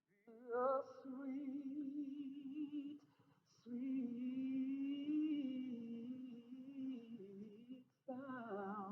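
A solo voice singing slow, long-held notes with vibrato, in three phrases with short breaks between.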